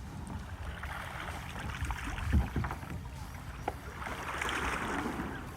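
Kayak paddle strokes splashing and sloshing in the water, the splashing swelling about four seconds in, with a few dull knocks and a low wind rumble on the microphone.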